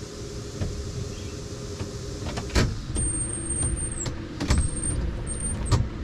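Maxxair Maxxfan roof vent fan running turned up, a steady hum, while three sharp knocks sound about two and a half, four and a half and nearly six seconds in. A thin high whine comes and goes between the knocks.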